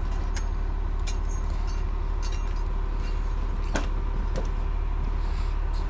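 Crane truck's engine running steadily with a constant low rumble and hum. A few light knocks sound over it, the clearest about a second in and near four seconds.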